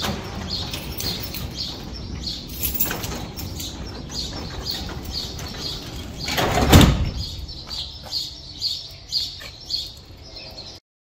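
Small bird chirping over and over, about two or three short high chirps a second, over a steady outdoor rumble, with a louder rush of noise swelling and fading about seven seconds in.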